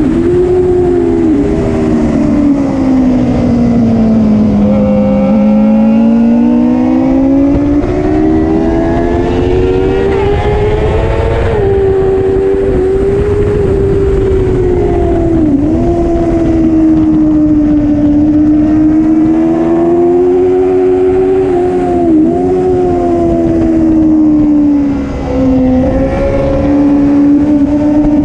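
A racing motorcycle engine running hard the whole time, its pitch sinking and climbing with the throttle. Several quick sharp dips mark gear changes.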